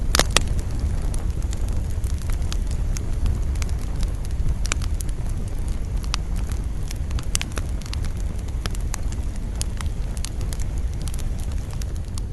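Campfire crackling, with irregular sharp pops over a steady low rumble of wind. A loud cluster of pops comes right at the start.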